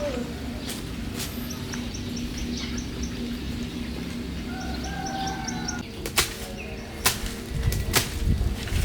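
A bird chirping in a quick, regular series of short high notes over a steady low rumble, then three sharp knocks about a second apart near the end.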